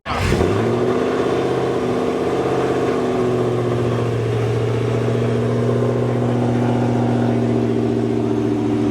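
Car engine idling steadily; its pitch eases slightly lower over the first few seconds, then holds.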